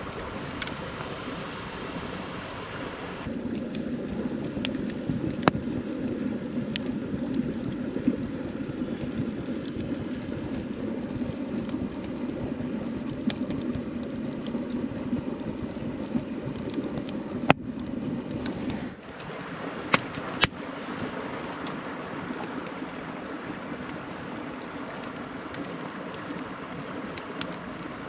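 Mountain stream rushing steadily, with a few sharp pops from a wood fire. The water sound shifts abruptly twice, about three seconds in and again near the middle.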